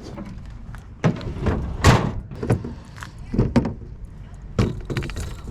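A series of irregular knocks and thumps, about six or seven in all, each one short and sharp.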